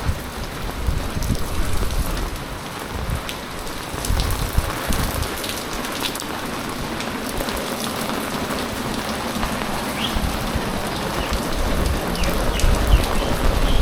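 Heavy typhoon rain pouring down, a dense steady hiss of falling and splashing drops with scattered sharp drop ticks. Low rumbling buffets swell up now and then and grow stronger near the end.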